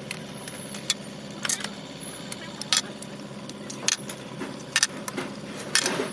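Metal tools and engine parts clinking during hand work on a truck engine: about six sharp clinks, irregularly spaced a second or so apart, over a steady background hum.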